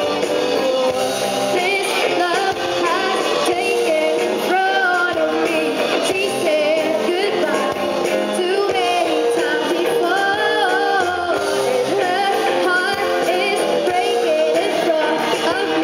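Amateur rock band playing a song live: a singer over electric guitars, bass, drums and piano, the music loud and continuous.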